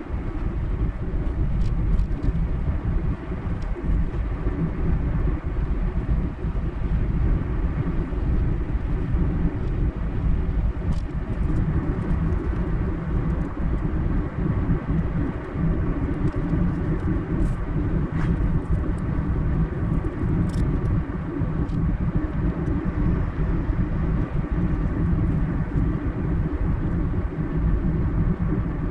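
Car driving at a steady speed: even, low rumble of tyres and engine running without a break, with a few faint ticks.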